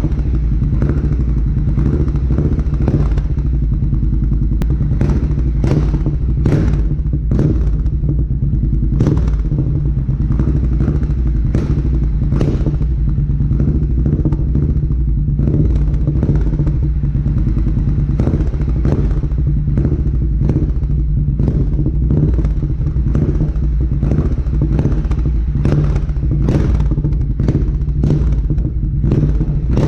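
2022 Triumph Bobber's 1200 cc parallel-twin engine idling steadily through a Delkevic aftermarket exhaust with the baffle fitted. Scattered sharp clicks and knocks sound over the idle throughout.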